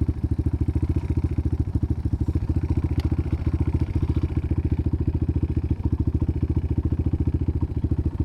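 Dirt bike engine idling steadily, an even rapid pulse of about ten beats a second.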